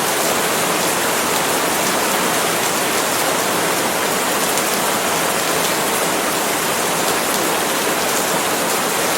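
Steady heavy rain falling on palm leaves, an even dense hiss with fine patter of drops.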